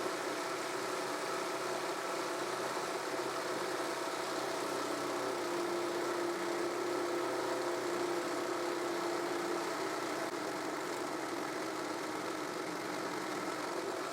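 Table-mounted jigsaw running steadily through a miter cut on a sled, its motor humming at an even pitch with one tone standing out more strongly for a few seconds midway.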